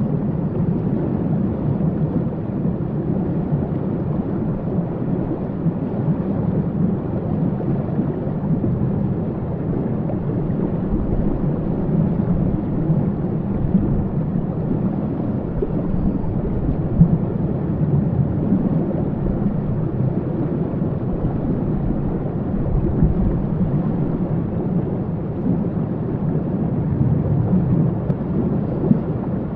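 Waterfall: a steady, deep rush of falling water, low and dull with no high hiss.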